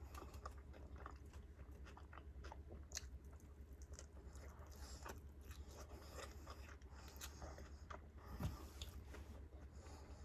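A person chewing and biting food close to the microphone: many small wet clicks and crunches, over a steady low hum. One louder knock comes about eight seconds in.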